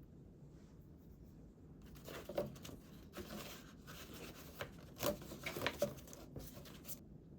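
Paper being handled in a scrapbook: a papery rustle with a few sharp crackles, starting about two seconds in and stopping abruptly about five seconds later.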